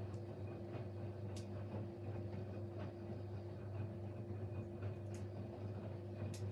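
Siemens Siwamat Plus 574 front-loading washing machine running its main wash: a steady motor hum with a constant tone above it, and scattered light clicks.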